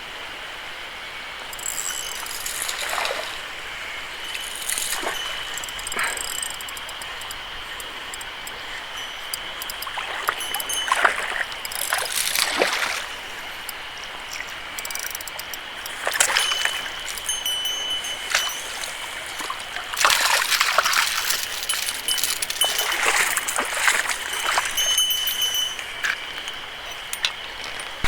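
Mountain stream flowing steadily, with irregular louder splashing sounds every few seconds.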